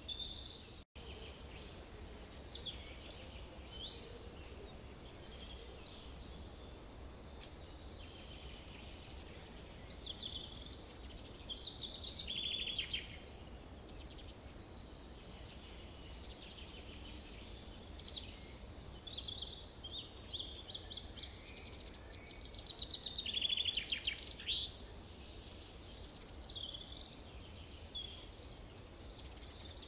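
Forest birds singing and calling, several at once, over a steady low background rumble. Two louder, rapid trilling songs stand out, about a third of the way in and again past two-thirds. The sound drops out for an instant about a second in.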